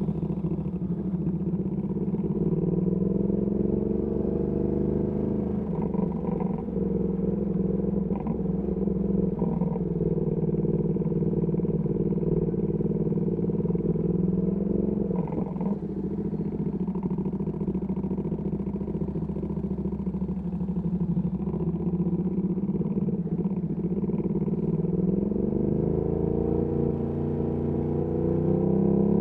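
Ducati Panigale V2S V-twin engine running through a Termignoni exhaust, riding in traffic. It holds mostly steady, with the pitch rising under acceleration twice, near the start and again near the end.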